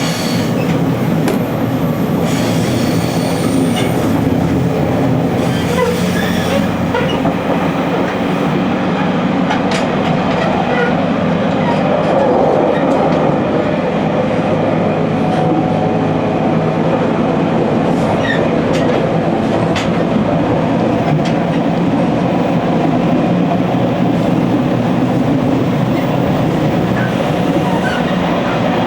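JR Kyushu 813 series 200-subseries electric multiple unit running at speed, heard from the driver's cab: a steady rumble of wheels and running gear on the rails, with scattered clicks as the wheels pass rail joints.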